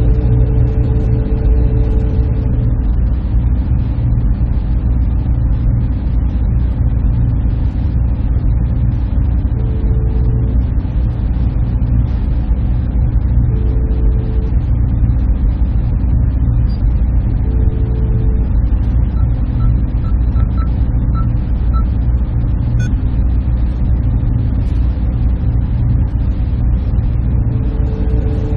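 Server room ambience: the steady hum and fan noise of running server equipment, with strong low droning tones. A mid-pitched tone sounds briefly about every four seconds, and a few faint short high tones come in the middle.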